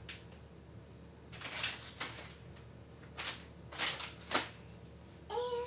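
A handful of short, sharp clatters and rustles from handling things in a kitchen, about five separate knocks and scrapes spread over a few seconds.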